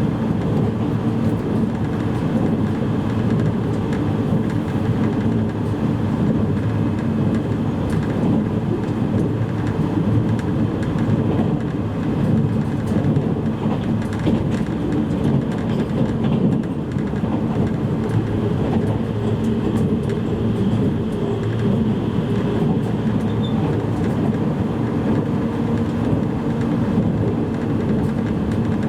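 Running noise of a JR East E653-series electric multiple unit heard from inside a motor car: a steady rumble of wheels on rail with a steady hum and occasional faint clicks.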